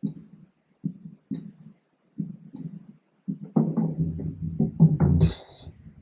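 Sampled acoustic drum kit programmed in Logic Pro X playing back: sparse kick and snare hits with short hi-hat ticks, then, just past halfway, a quick fill of drum hits that ends on a longer, ringing open hi-hat.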